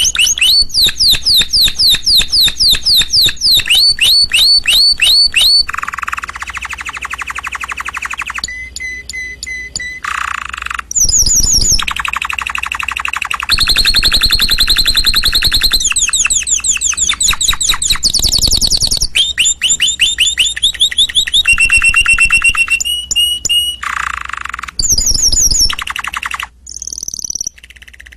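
Canary singing: rapid trills of repeated high notes, changing to a new phrase every second or two with hardly a break.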